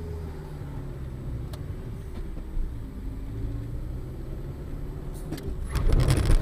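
Car engine running, its pitch rising and falling. Near the end a louder rush of noise sets in.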